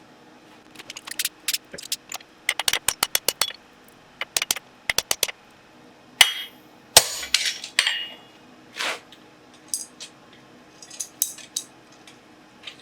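Hand hammer striking steel at the anvil while cutting off a piece of bar: quick runs of light strikes in the first half, then several louder blows that ring out.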